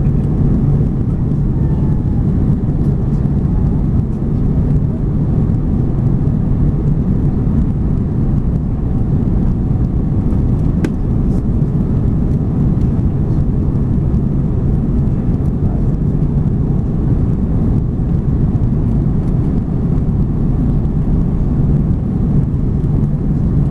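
Steady low rumble of an Airbus A330-200's engines and airflow heard inside the passenger cabin, with a constant hum and no change in level.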